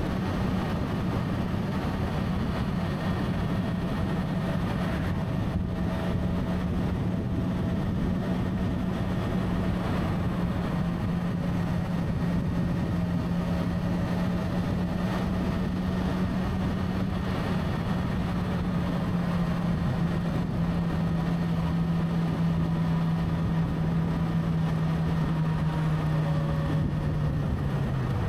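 Motorcycle engine running at a steady cruise, its note holding even and easing slightly lower through the second half, over a constant rush of wind and road noise.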